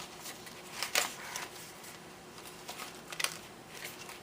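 Paper pages of a handmade journal being turned and handled: a few brief rustles and soft taps, the sharpest about a second in and again past three seconds.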